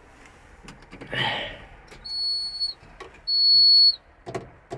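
Two steady high-pitched electronic beeps, each lasting about half a second, from the John Deere 344G loader's cab warning buzzer ahead of a cold start, with the engine not yet running. A short rustle and a few clicks from the cab come around them.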